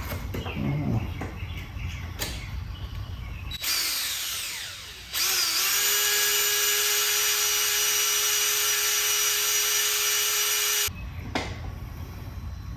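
Electric drill drilling out a soft, stripped carburetor float-bowl screw. A short burst a few seconds in winds down, then the drill runs steadily at speed for about six seconds and stops abruptly. Light tool knocks come before and after.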